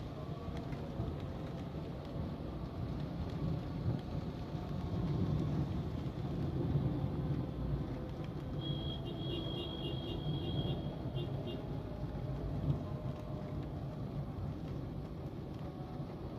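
Steady low rumble of a car on the road in the rain, with a quick run of high-pitched beeps a little past the middle.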